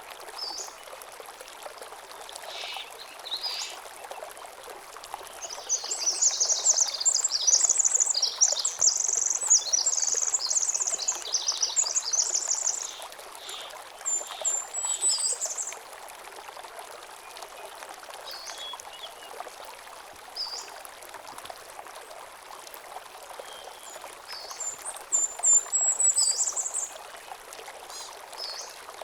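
A small stream running over stones, a steady trickle of water. Songbirds sing over it, with long, rapid, high trills about five seconds in and again near the end.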